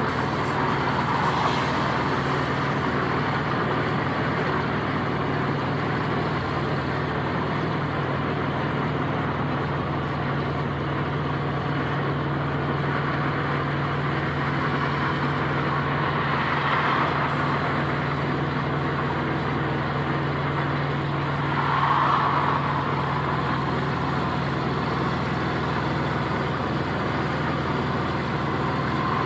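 A 1992 VW Beetle's carbureted, air-cooled flat-four engine runs steadily at a moderate cruising speed of about 80 km/h, heard from inside the car with a steady low hum. A few brief swells of noise come and go.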